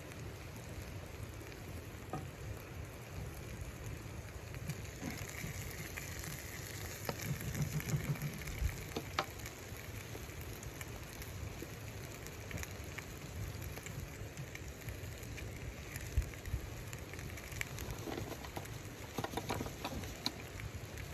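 Snowstorm wind, a steady low rumble, with scattered light ticks and crackles over it.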